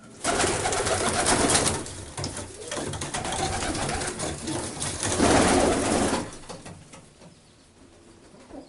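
Domestic pigeons in a loft, with a loud rustling flutter that starts just after the beginning and lasts about six seconds, then dies down.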